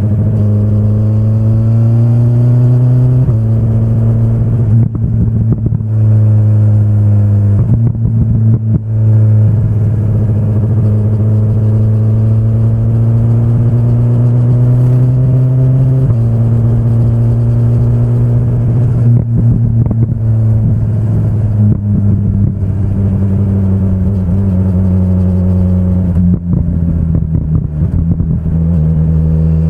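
2025 BMW S1000RR's inline-four engine running hard on the move, its note climbing steadily in pitch and stepping down sharply about three times as it shifts up, then falling away over the last few seconds as the bike slows.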